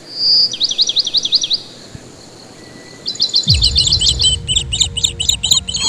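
A songbird singing: a short held whistle, then a phrase of fast, repeated sweeping notes, a brief pause, and a second longer phrase of quick repeated notes. A deep low sound comes in about halfway through, under the bird.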